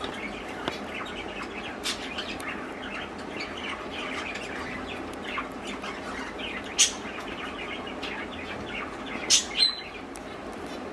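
English budgies chattering with many short chirps, with a few louder sharp squawks, one about seven seconds in and two close together near the end.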